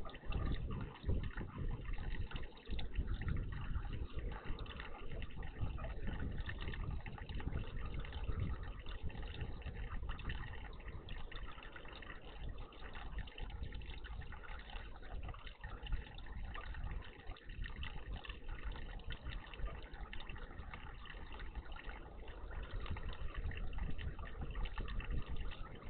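Water trickling and splashing in a garden bird bath, a continuous uneven wash of sound.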